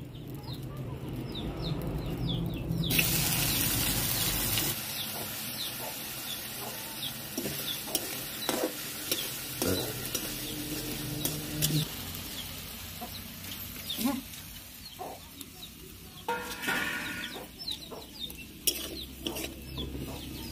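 Wet-cut kochu (taro) pieces tipped into hot oil in a wok over a wood fire, flaring into a loud sizzle about three seconds in, then frying with a steady hiss. A metal spatula clicks and scrapes against the wok as the pieces are stirred.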